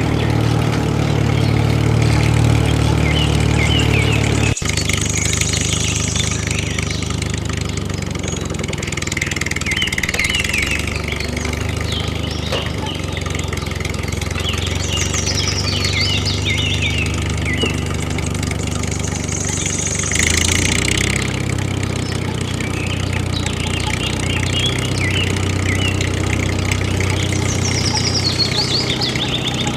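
Motor of a home-built miniature tractor running steadily, with a low hum that drops abruptly about four and a half seconds in.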